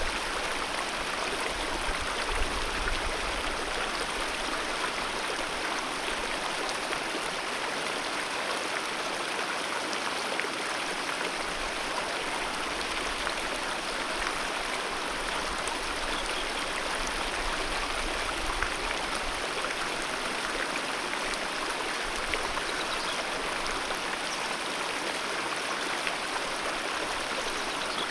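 Alpine mountain river flowing: a steady, even rush of water.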